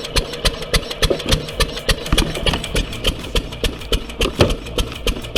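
Engine of a homemade log splitter running steadily, with a rapid even beat of about five pulses a second.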